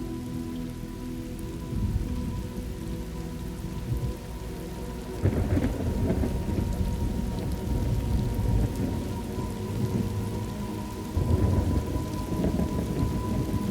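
Thunderstorm ambience: steady rain with low rolling thunder, which swells about five seconds in and again near eleven seconds.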